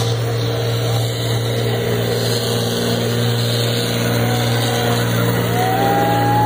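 Engine idling with a steady low drone. About a second before the end, a higher held tone rises in over it.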